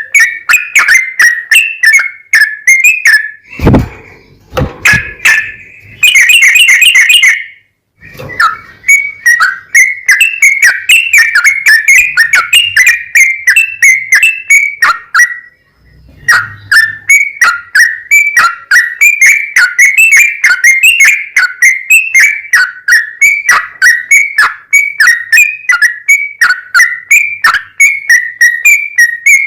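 Yellow-vented bulbul (trucukan) singing a long run of quick whistled chirps, about three or four notes a second. The run is broken a few seconds in by a couple of dull thumps and a short buzzy rattle, and pauses briefly near the middle.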